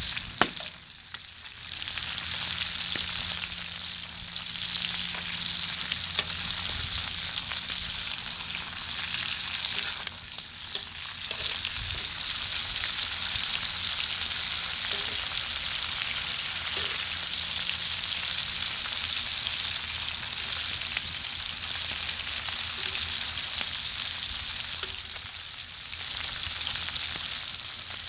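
Bacon sizzling over a crackling fire: a steady frying hiss that eases off briefly a few times, with faint scattered ticks.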